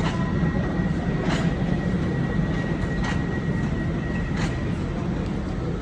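Train running along the track: a steady low rumble with a faint high whine that stops about four and a half seconds in, and three sharp clicks spaced a second or two apart.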